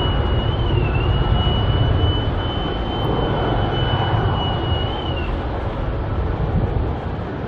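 Airbus A320-232's IAE V2500 jet engines at take-off thrust: a loud, steady rumble with a thin high whine that wavers slightly and fades out about five seconds in.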